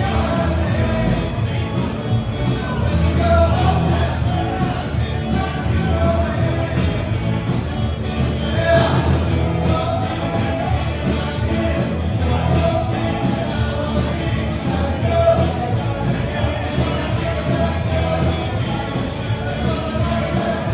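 Live rock band playing with a singer over a steady drum beat.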